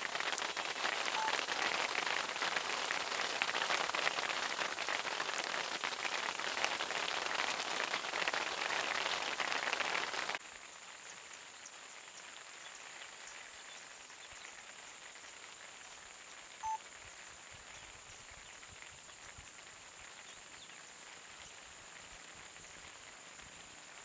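Steady rain hiss, loud for about the first ten seconds, then dropping abruptly to a much quieter rain hiss. A single short beep sounds about two-thirds of the way through.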